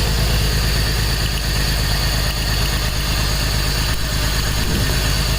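2004 BMW X3's 3.0-litre straight-six idling with the coil pack pulled off cylinder 1, so that cylinder is not firing. A faint steady high whine runs over the engine sound.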